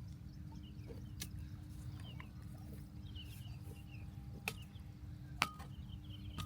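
Faint, short high chirping calls repeated now and then, with a few sharp clicks, over a low steady rumble and hum.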